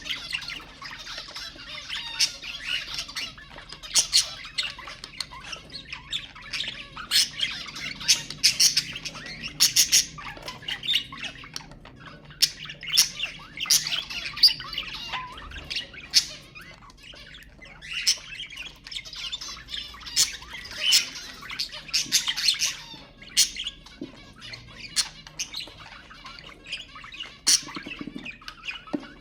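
Budgerigars chattering and warbling without a break, with frequent short, sharp squawks and chirps.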